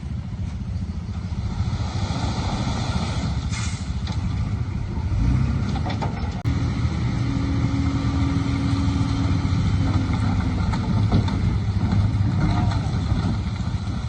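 Heavy earthmoving machinery's diesel engine running with a deep, steady rumble, a little louder from about five seconds in.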